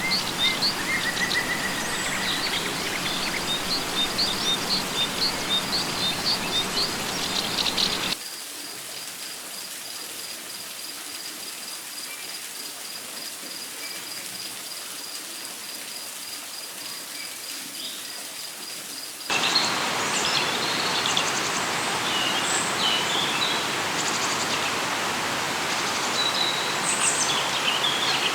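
Rainforest ambience: birds chirping and calling over a steady hiss, with a high, rapidly pulsing insect trill. About eight seconds in it cuts suddenly to a quieter stretch where mainly the insect trill remains, then the hiss and bird calls return abruptly about eleven seconds later.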